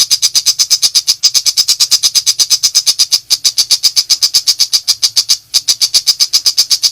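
Long-tailed shrike (pentet macan) giving its rapid-fire 'nembak' call: a fast, even train of sharp high-pitched notes, about eight a second, broken by a few brief pauses.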